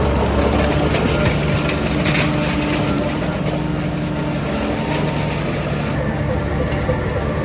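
Heavy diesel earthmoving equipment running steadily with a deep, even engine drone, and a short hiss about two seconds in.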